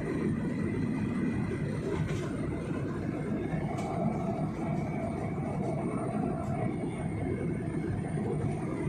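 Steady rumble of jet engines and airflow heard inside a passenger airliner's cabin in flight, with a faint high steady whine over it.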